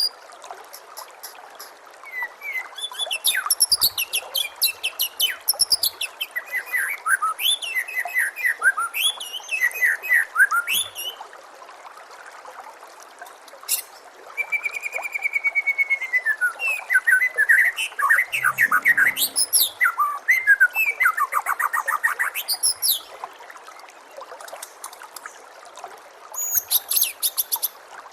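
White-rumped shama (murai batu) singing bouts of rapid, varied whistles, sweeps and trills, with short pauses between bouts, over a steady trickle of running water.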